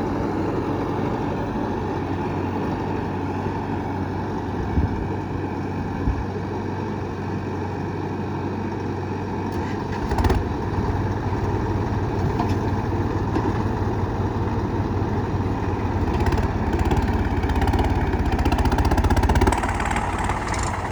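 Heavy diesel engine running steadily, its low rumble getting louder about ten seconds in, with two brief knocks a little earlier.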